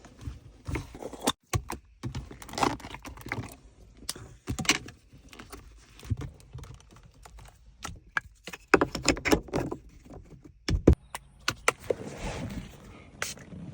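Irregular handling sounds from cleaning a car by hand: scattered knocks, clicks and rubbing, breaking off abruptly a couple of times.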